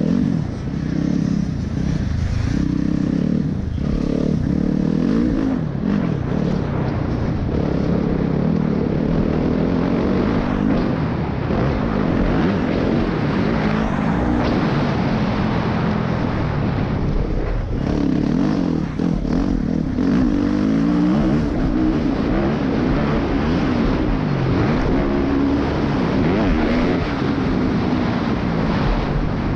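Motorcycle engine running under way, its pitch rising and falling repeatedly with the throttle.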